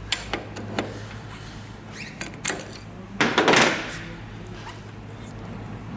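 Metal clicks and knocks from a special wrench working the nozzle retaining cap nut on a Scania/Volvo electronic unit injector clamped in a fixture. A louder grating scrape lasts about half a second, a little over three seconds in. A steady low hum runs underneath.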